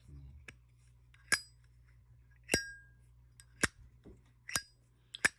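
Zippo lighter lid flicked open and snapped shut over and over: about five sharp metallic clicks, a couple of them leaving a brief bright ringing ping.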